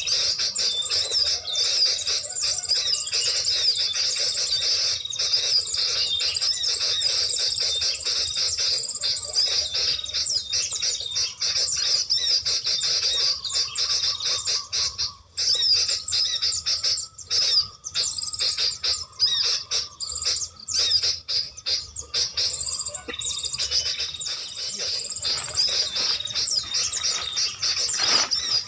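Small songbirds chirping continuously in a rapid, high-pitched twitter, with brief breaks.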